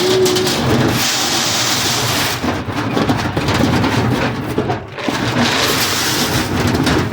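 Dry pig feed pouring into a hog feeder: a dense rushing rattle like rain, in two heavier pours.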